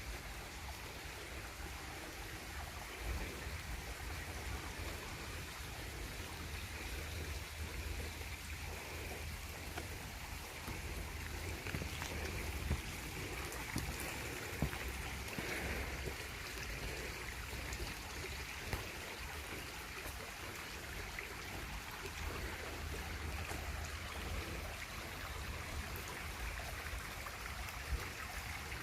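A small stream flowing steadily over rocks, a constant rush of running water.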